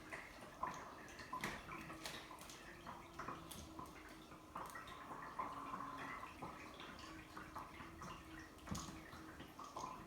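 Irregular light taps and clicks of kittens playing, their paws and a toy knocking and scuffing on the floor.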